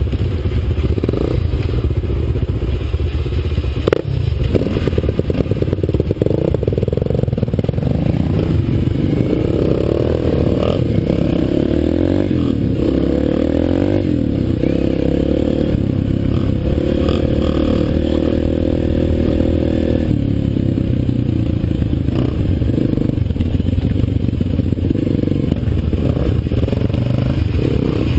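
Dirt bike engine running while riding, its pitch rising and falling with the throttle, with a single sharp knock about four seconds in.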